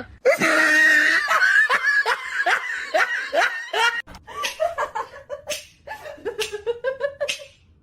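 A person laughing hard in quick repeated bursts, then dropping to softer chuckles about four seconds in.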